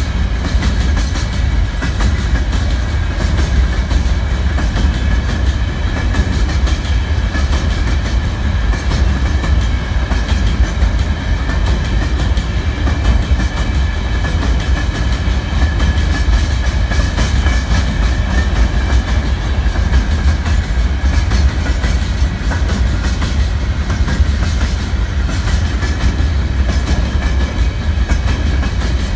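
Freight train rolling past at steady speed, with a loud, continuous low rumble from the wagons' wheels on the track and no horn.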